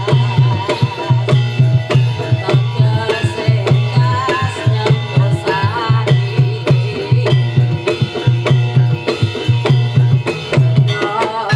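Javanese gamelan music for a jaranan dance, driven by kendang hand drums playing a fast, steady rhythm of deep strokes and sharp slaps. A wavering melodic line runs above the drums.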